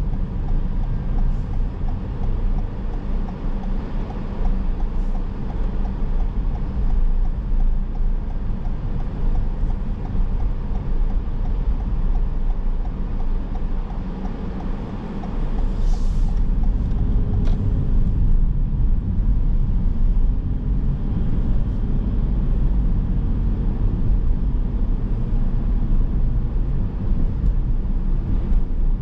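Car driving on city streets: steady engine and road rumble, growing louder about halfway through.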